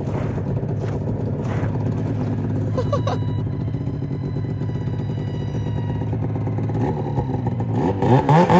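Snowmobile engine running at a steady speed, then revving up hard near the end, its pitch climbing and growing louder.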